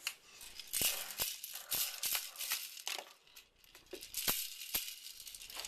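Irregular shaken rattling with scattered sharp clicks, fading out briefly a little past the middle.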